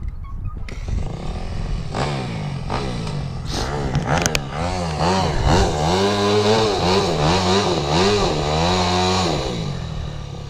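Dirt bike engine revving: the pitch climbs over the first few seconds, then blips up and down about twice a second for several seconds before settling lower near the end.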